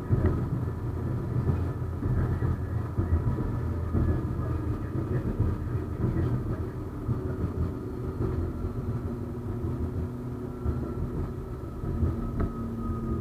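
71-931M Vityaz-M low-floor tram running along the track: a continuous low rumble with faint steady whining tones over it, one of which grows stronger in the second half.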